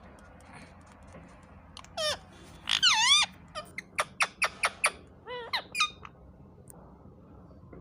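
Ringneck parrot calling: a rising squawk, a wavering screech, then a quick run of short sharp squawks and a few more calls, stopping about six seconds in.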